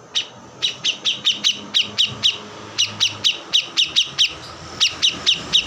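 A kores bird singing energetically: a rapid series of short, sharp chirps, each sweeping downward, about three to four a second, with two brief pauses.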